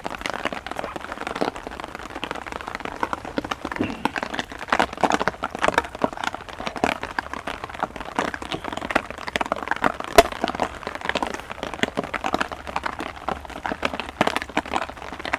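Heavy rain falling, with drops striking close to the microphone as many irregular sharp taps.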